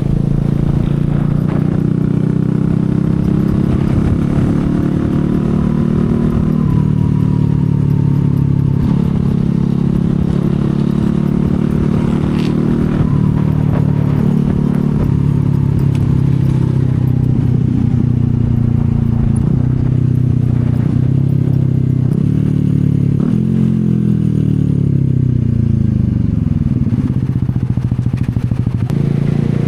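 CFMoto 250SR Lite's single-cylinder engine running on the move, its pitch rising and falling with throttle and gear changes. Near the end the revs fall away steadily as it slows, then pick up again.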